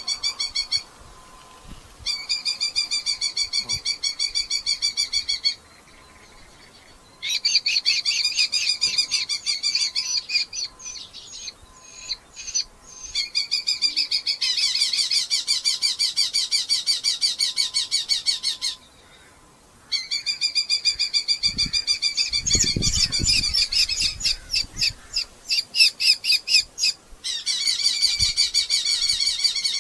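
Red-footed falcons calling in long runs of rapid, shrill repeated notes, bout after bout with short pauses between. A few low thumps come from inside the box partway through.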